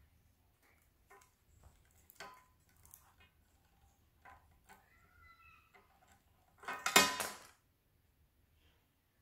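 Budgerigar chirping softly among scattered light clicks and clinks, then one loud harsh call about seven seconds in.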